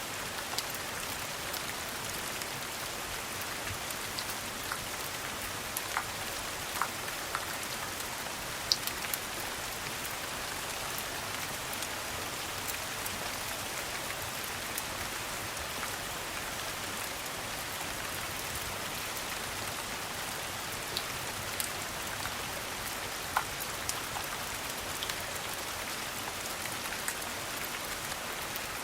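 Steady rain falling, an even hiss, with a few scattered sharp clicks and pops standing out above it.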